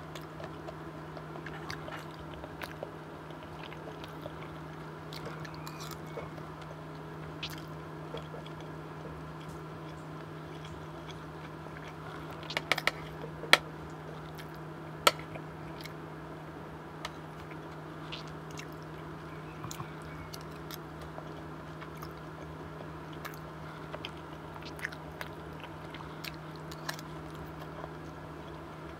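Close-miked chewing and biting of a meal of curry and rice, with small mouth clicks throughout. A metal spoon knocks against a ceramic bowl, loudest in a few sharp clicks about 13 and 15 seconds in. A steady low hum runs underneath.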